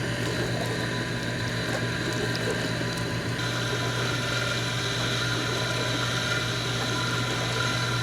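Maytag dishwasher's recirculation pump running during the wash cycle with a loud, steady grinding noise from beneath the tub. The noise comes from a fault in the pump and motor assembly, which was cured by replacing that assembly.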